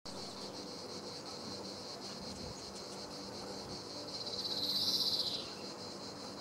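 Steady high-pitched insect chorus. About four seconds in, a louder buzzy sound swells for a little over a second, then drops away with a short downward slide.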